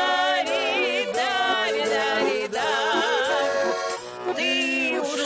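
A singing voice with strong vibrato, performing a Russian folk-style song over held instrumental accompaniment, with a short break between phrases near the end.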